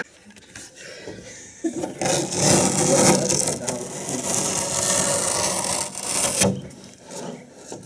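Rough rubbing and scraping noise lasting about four seconds, starting about two seconds in and stopping abruptly.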